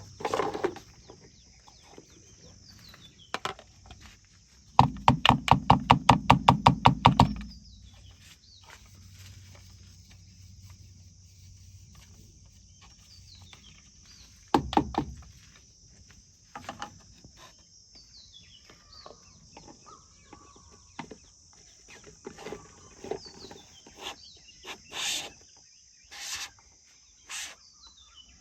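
Outdoor rural ambience: a steady high buzz of insects with a few short bird chirps. About five seconds in comes a loud rapid series of knocks, roughly five a second for a couple of seconds, then another single loud knock later on and a few spaced short pulses near the end.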